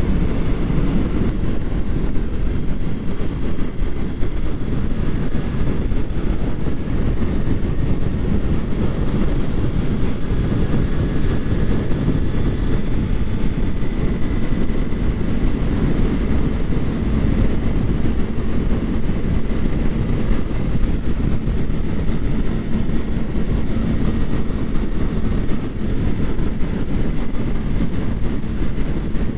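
Kawasaki Ninja 400 motorcycle under way: steady wind rush buffeting the GoPro's microphone, with the bike's parallel-twin engine running underneath.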